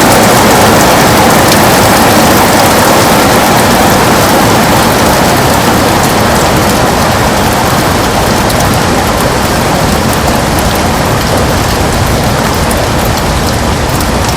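Heavy rain falling on a window: a steady, dense hiss of drops that eases slightly in loudness.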